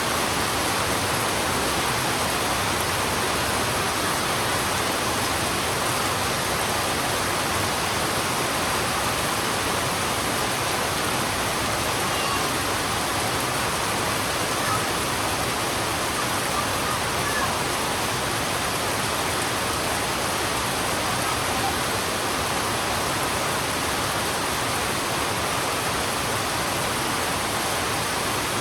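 Heavy rain falling steadily on a road, a dense, even hiss without break.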